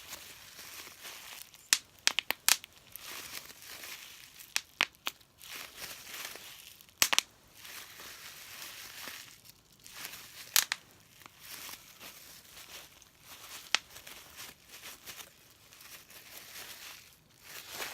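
Plastic wrapping crinkling and tearing close to the microphone, with a scattering of sharp snaps or pops among the rustle.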